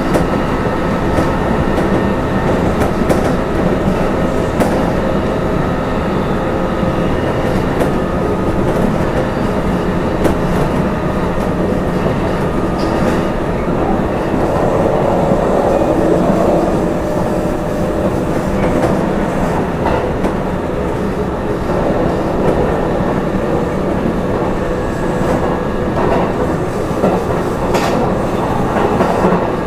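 Kintetsu 12200 series electric limited-express train running at speed, heard from aboard: a steady rumble of wheels and running gear, with faint steady tones and scattered clicks as the wheels cross rail joints.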